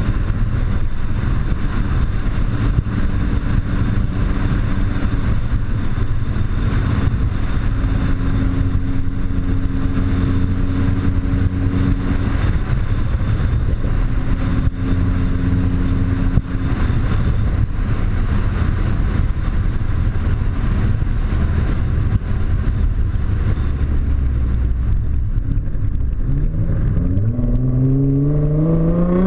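Nissan GT-R engine through an HKS aftermarket exhaust, running at a fairly steady speed with road noise. About three seconds from the end it accelerates, the engine note rising steadily in pitch.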